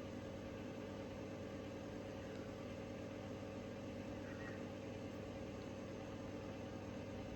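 Unpowered 56-inch Wing Tat ceiling fan with mild-steel blades coasting down: a faint, steady whir with a low hum under it.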